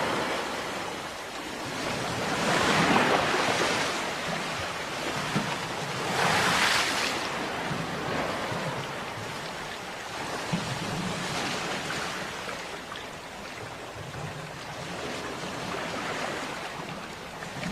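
Ocean surf: waves breaking and washing in as a continuous rushing hiss. Louder breakers swell up about three seconds in and again about six and a half seconds in, then softer waves follow.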